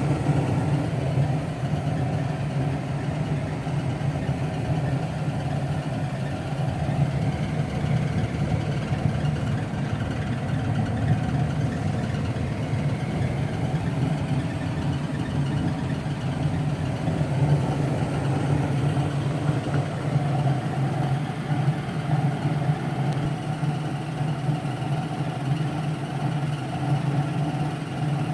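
Gas furnace running with its burners on: a steady low hum with a faint, thin, high squeal over it, the squeal that sets in once the burners have run for about a minute.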